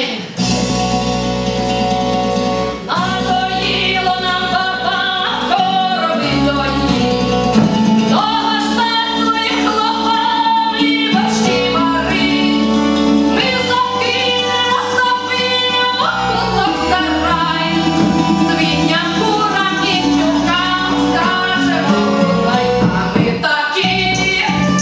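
A song performed with a woman singing over an instrumental accompaniment with a steady bass line.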